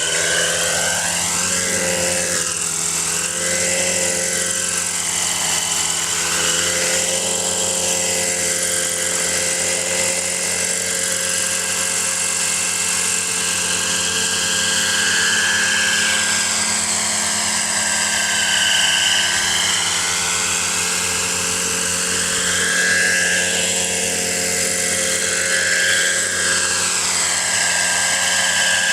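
Kalt Baron Alpha RC helicopter's four-stroke model engine and rotor running steadily, with a tone that sweeps up and down as the helicopter moves.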